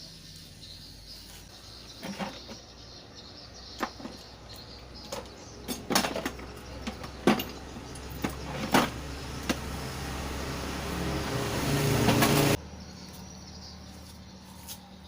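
Scattered clicks and knocks. A hiss then grows louder for about three seconds and cuts off suddenly, over a steady low hum.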